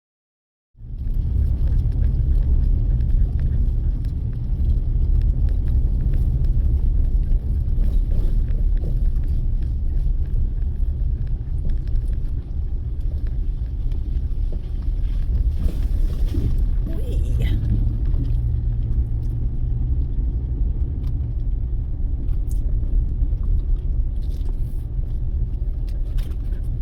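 Vehicle driving, heard from inside the cab: a steady low engine and road rumble that starts abruptly about a second in.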